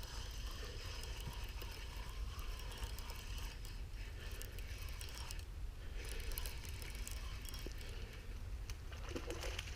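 A spinning fishing reel being cranked steadily, its gears clicking as the line is wound in on a hooked fish.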